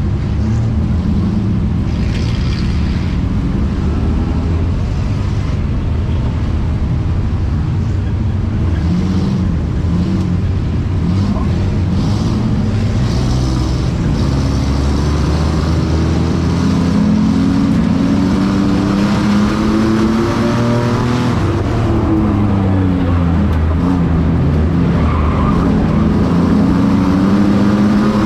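Several racing trucks' engines running hard on a track, the pitch rising and falling as they go past and lift off and accelerate, over a steady haze of tyre and engine noise.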